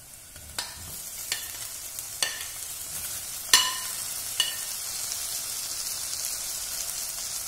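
Chopped tomatoes tipped and scraped off a plate with a spoon into a hot stainless steel saucepan of onions, garlic and chillies frying in butter and oil. About five sharp clinks of the spoon on the plate and pan, the loudest about three and a half seconds in, while the sizzling grows louder as the tomatoes land in the hot fat and then holds steady.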